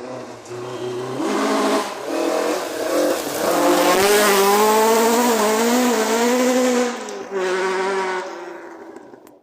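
Rally car driving through at speed on a forest stage, its engine revving hard, with the pitch rising and dipping as it changes gear. It builds up, is loudest in the middle, and fades as the car goes away.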